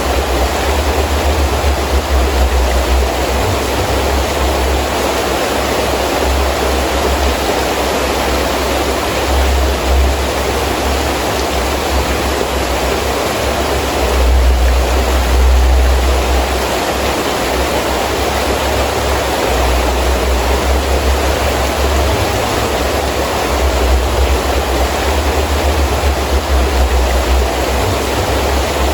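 Heavy rain falling steadily with wind, a continuous hiss of rain and a low rumble that comes and goes, swelling about halfway through.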